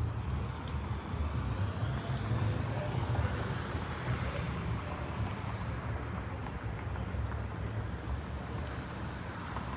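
A car engine running with a steady low rumble, over general outdoor background noise.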